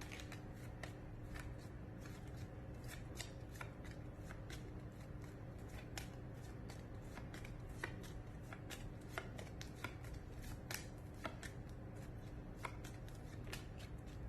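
Faint, irregular clicks and taps, roughly two or three a second, over a low steady hum.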